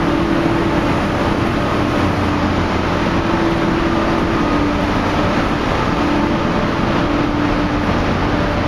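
Steady, loud mechanical drone of a standing train's running equipment, with a steady hum tone through it.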